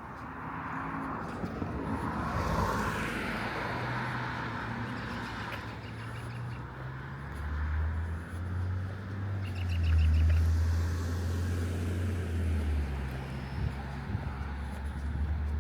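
Strong wind gusting through trees and leaves, with a passing car's low engine hum that peaks past the middle. A bird chirps briefly twice.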